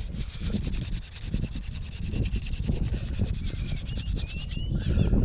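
Hand drill for friction fire: a wooden spindle spun back and forth between the palms, drilling into a wooden hearth board. Fast, even wood-on-wood rubbing that stops about four and a half seconds in.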